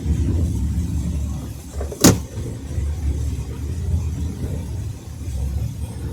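Car driving on a snowy road: a steady low rumble of engine and tyres, with one sharp knock about two seconds in.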